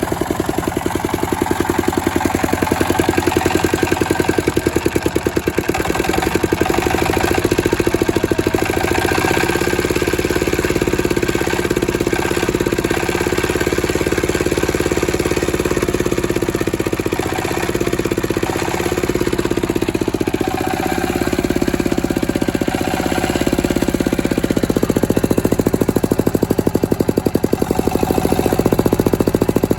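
Rebuilt Changchai L24 single-cylinder diesel engine running, a rapid, even train of firing beats. Its speed dips slightly a little past the middle and then picks back up.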